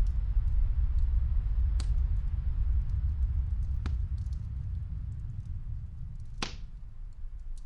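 Snowstorm wind as a deep, steady low noise that eases off a little toward the end, with a wood fire crackling over it: scattered faint ticks and three sharper pops, the loudest about six and a half seconds in.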